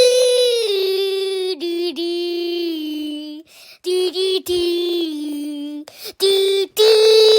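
A high voice singing a wordless melody a cappella, with long held notes broken by a few short pauses. It imitates a soundtrack.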